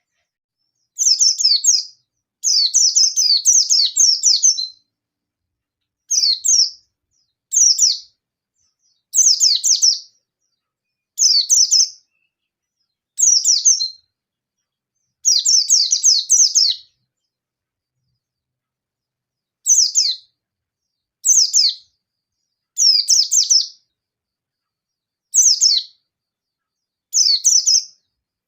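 Yellow-breasted white-eye (pleci) singing in short, fast, high-pitched chirping phrases, about a dozen bursts with pauses of one to three seconds between them. This is its aggressive 'nembak' challenge song, the kind used to call out a rival and draw other white-eyes to answer.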